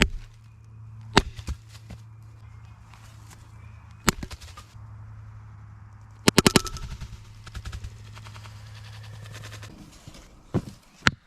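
Sharp wooden knocks of firewood being chopped, single strikes at first, a quick run about six seconds in, then steady repeated blows near the end. A steady low hum lies under them and stops about ten seconds in.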